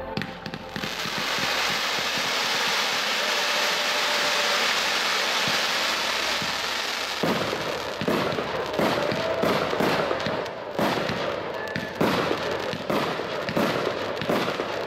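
Fireworks display: a steady hiss for about the first seven seconds, then a quick run of launches and bursting shells, about two sharp bangs a second.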